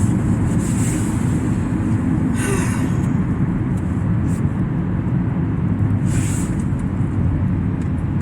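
Steady low rumble of a car driving, heard from inside the cabin, with a few brief hissing swells.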